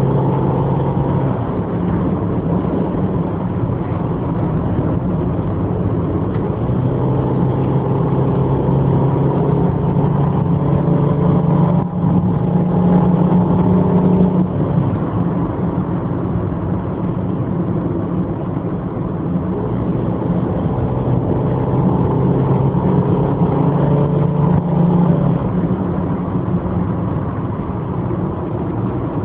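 Subaru Impreza GH3A's 1.5-litre flat-four engine running under load uphill, heard from inside the cabin with steady road and tyre noise; its note steps up and down in pitch several times as the automatic gearbox and throttle change.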